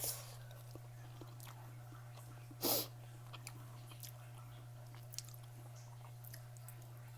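Close-up chewing, with small wet mouth clicks and one short, louder noisy burst about two and a half seconds in, over a steady low hum.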